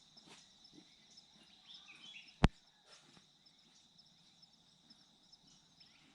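Quiet outdoor ambience with small birds chirping now and then over a steady high tone. A single sharp click sounds about two and a half seconds in.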